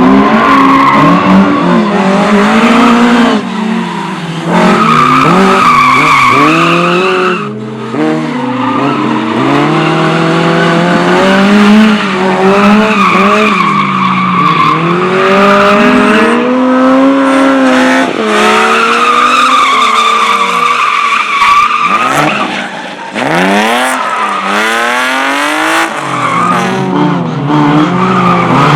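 Slalom race car driven hard through a cone course: the engine revs up and down again and again with brief lifts off the throttle, while the tyres squeal in long high tones through the turns.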